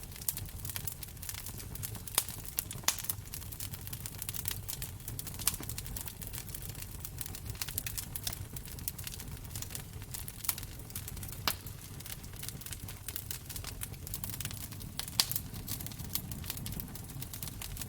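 Wood fire crackling in a fireplace: a dense run of small crackles with a handful of louder sharp pops scattered through, over a low rumble.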